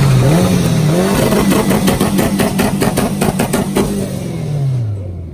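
A car engine revving hard with a crackling, popping exhaust; near the end its pitch falls away and the sound fades.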